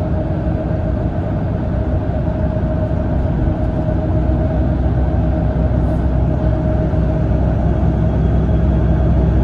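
Cabin sound of a Mitsubishi Fuso Aero Ace coach under way: a steady engine and road rumble with a constant mid-pitched whine, growing a little louder towards the end.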